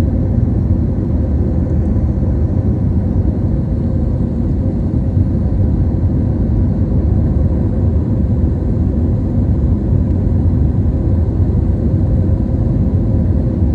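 Airliner cabin noise in flight: the steady low rumble of the engines and airflow, with a faint steady hum, unchanging throughout.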